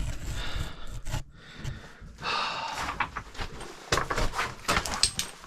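Hard breathing and panting of a caver crawling through a tight cave passage. In the second half come many short scuffs and knocks as body and gear scrape over rock.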